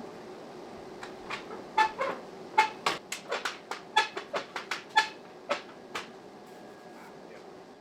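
A run of light metal-on-metal taps, about a dozen over four seconds, several with a short ringing tone, over a low steady hum.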